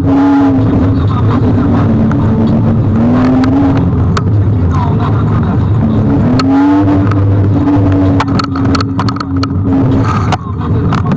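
Electric scooter ride: the hub motor whines, its pitch gliding up and down with speed, over heavy wind and road noise. A run of sharp clicks and knocks comes near the end.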